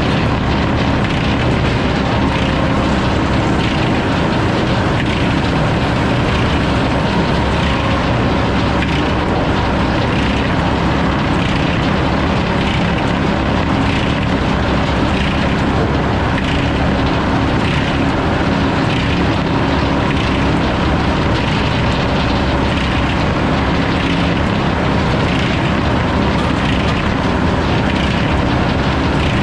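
Sawmill running steadily under load as its saw cuts through a log, with a regular beat about once a second.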